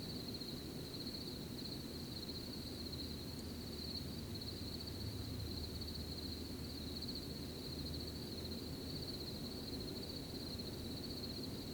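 Crickets chirping in one continuous high, finely pulsing trill over a low, even background rumble.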